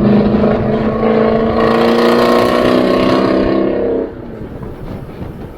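Straight-piped 5.7 L Hemi V8 of a 2013 Chrysler 300S under hard throttle. It is loud and held at high revs until about four seconds in, then the throttle shuts and it falls back to a low rumble.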